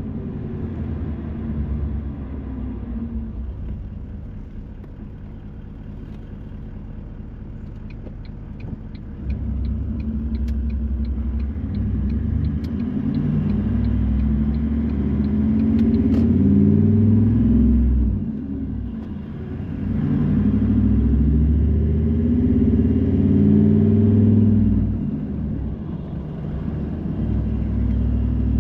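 Car engine and road rumble inside the moving car's cabin. The engine pitch rises several times as the car accelerates, and eases off briefly about two-thirds of the way through. A light, even ticking at about two a second runs for several seconds in the middle.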